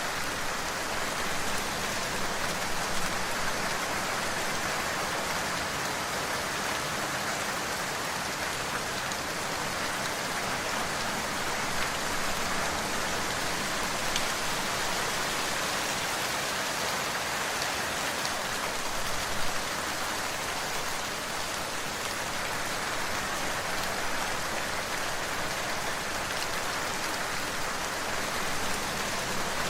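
Steady, heavy rain falling on surfaces, an even dense hiss with scattered sharper drop hits.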